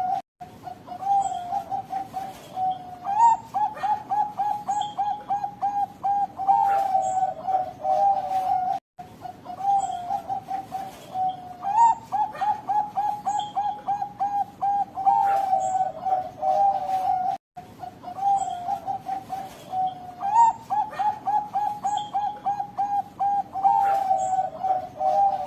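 Zebra dove (perkutut) of the Bangkok Golden type singing its cooing song three times. Each phrase is a rising opening note, a fast run of short staccato coos, and a long, lilting end note.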